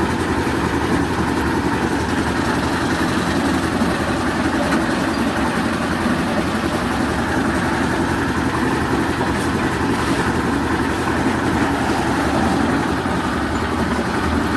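An engine running steadily and evenly, with no change in speed.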